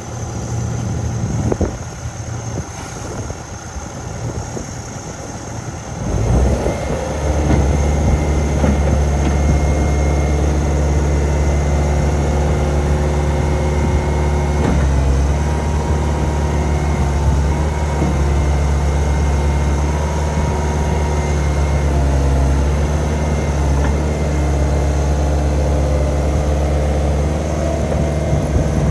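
Cat 259B3 skid steer's diesel engine running at a low idle, then throttled up about six seconds in to a steady, louder high-rpm run, with a faint high whine over it.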